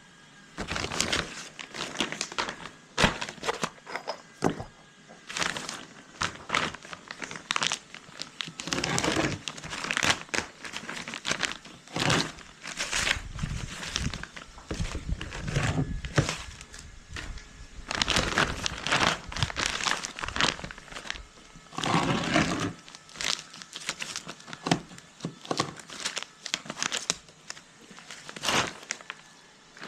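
Plastic sheeting crinkling and crackling in irregular bursts as it is handled and cut down to size.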